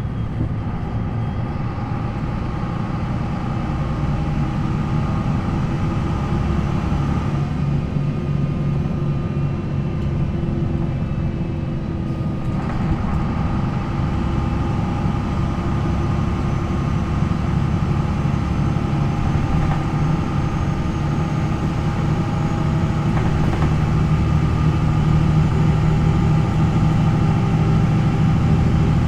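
MAN NL 263 low-floor bus's D28 inline-six diesel running steadily while the bus is under way, through its ZF Ecomat automatic gearbox. The engine note grows slowly louder toward the end.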